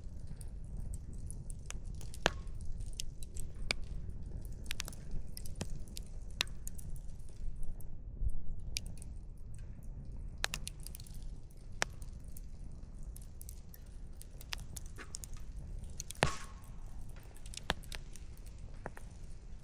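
Wood fire crackling: irregular sharp pops and snaps from burning firewood over a steady low rumble, with one louder pop about sixteen seconds in.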